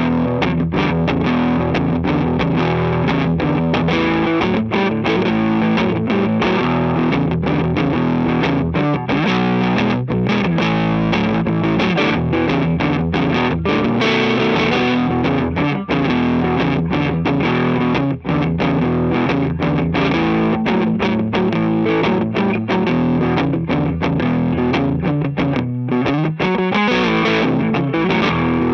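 Gibson ES-335 semi-hollow electric guitar played through a distorted amp, a rock and roll rhythm part of driving chords and riffs, with a short break about 26 seconds in.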